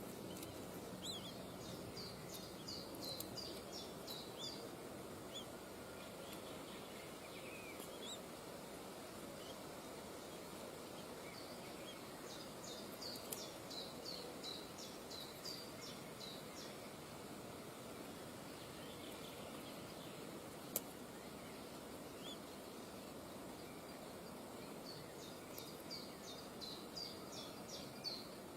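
A bird calling in three quick runs of short, sharp, high notes, about eight to ten notes per run, over a steady hiss of outdoor background noise; a single sharp click sounds about two-thirds of the way through.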